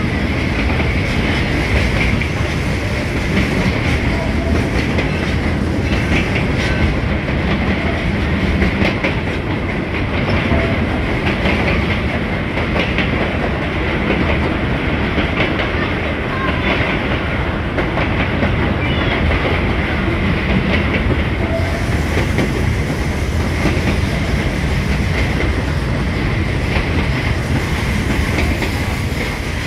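Passenger train running along the track, heard from inside a carriage: a steady rumble of the wheels with clickety-clack over the rail joints and a faint steady whine, echoing in a tunnel.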